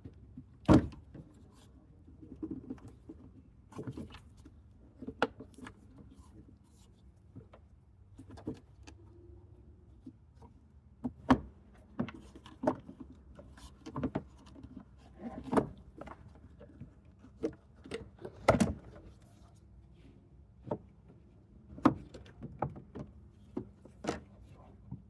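Irregular plastic knocks, clicks and rattles from hands working the engine air filter housing lid loose and handling it, the loudest about a second in.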